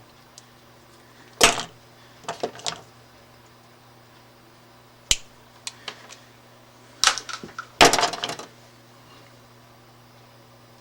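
Scattered sharp clicks and snips of hand tools and stiff electrical wire being handled while a short jumper wire is prepared, in small groups about a second or two apart, over a steady low hum.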